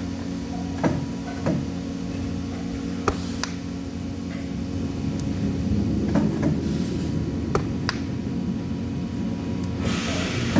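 Workshop machinery hum, steady and low, with scattered sharp metallic clicks and knocks from work at the bench.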